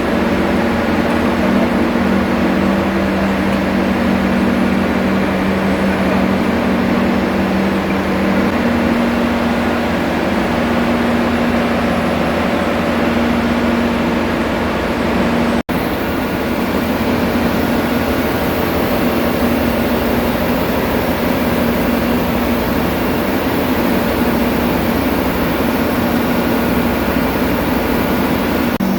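Loud, steady drone of a ship's engine-room machinery, with a constant low hum over a broad rushing noise; it drops out for an instant about halfway through.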